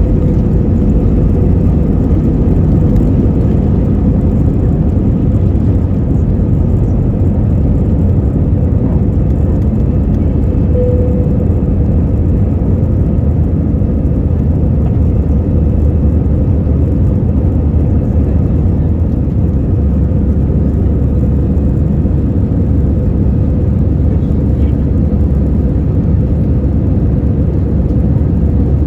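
Steady cabin noise inside an Airbus A320 in flight: the constant low rush of airflow and engines, with a faint steady hum running through it.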